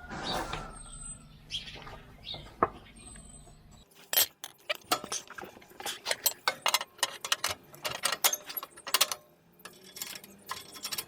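Metal hand tools clinking and clattering: scattered clicks at first, then from about four seconds in a dense, irregular run of sharp metallic clicks and knocks, like sockets and spanners being handled.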